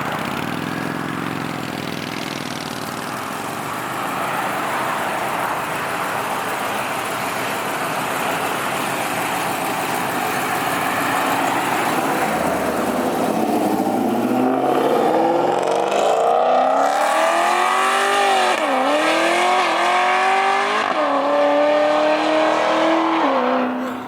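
Car engine accelerating, its pitch climbing steadily over several seconds and getting louder. Near the end the pitch drops sharply twice and climbs again before levelling off.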